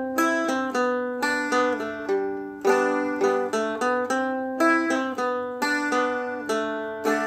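Seagull Merlin M4 (a four-string dulcimer-style instrument) played with a flatpick: a run of single plucked notes mixed with short strums through a simplified chorus melody, several notes a second.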